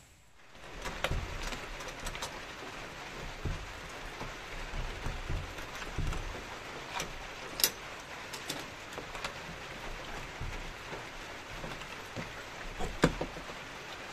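Steady rain falling, an even dense hiss, with scattered sharp clicks and knocks through it.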